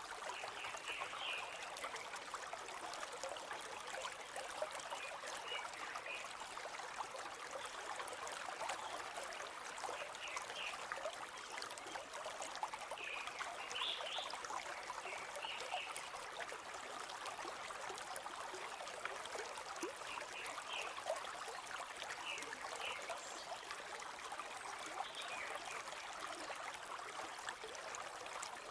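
River water flowing steadily, an even rushing babble. Brief high bird chirps come through now and then.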